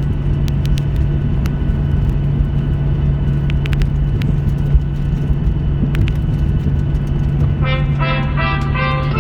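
Steady low rumble and hum inside a Boeing 737-800's cabin, with a few sharp clicks scattered through it. Music comes in shortly before the end.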